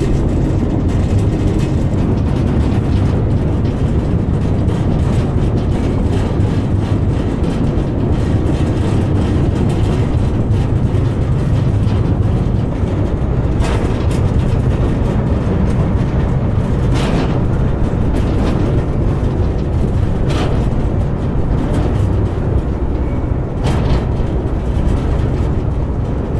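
Narrow-gauge train running, heard from an open wagon: a steady low rumble of the ride, with sharp clacks every few seconds in the second half.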